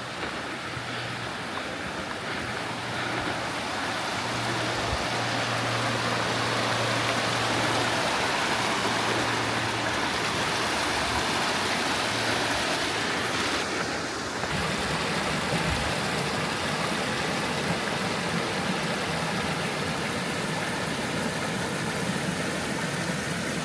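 Mountain creek rushing over rocks, a steady noise of running water that grows a little louder a few seconds in.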